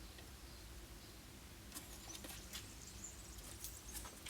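Faint scattered light clicks and scrapes of cut panel pieces being handled and fitted by hand, starting about two seconds in, over a low steady hum.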